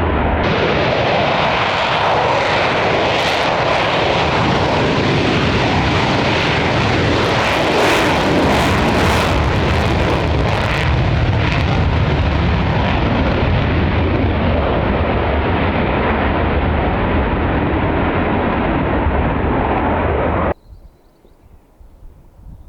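Loud jet noise from a military jet aircraft, with a crackle about a third of the way in. It cuts off suddenly near the end.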